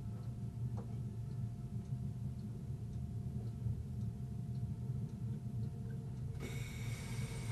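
Train running, heard from the driver's cab: a steady low rumble with faint regular ticking. About six and a half seconds in, a hiss with high ringing tones sets in over the rumble.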